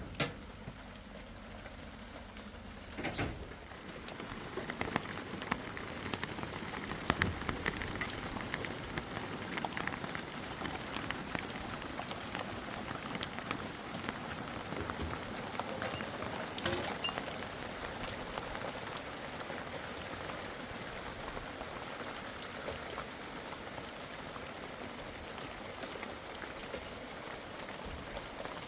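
Steady rain falling, with many scattered drops ticking sharply; a brief knock about three seconds in, just before the rain sound fills in.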